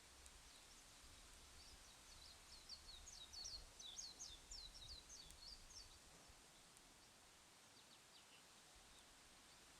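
Faint bird song: a quick run of short chirping notes for about four seconds, then a few more notes a little later, over a faint low rumble.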